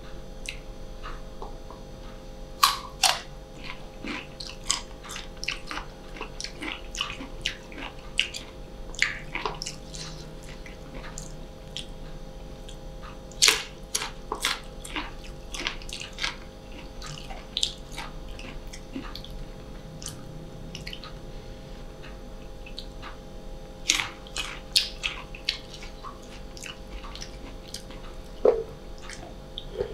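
Close-up chewing and crunching of crisp green mango slices dipped in sauce: irregular sharp crunches and wet mouth sounds, with a few louder bites, one about three seconds in, another near the middle and another about four-fifths of the way through.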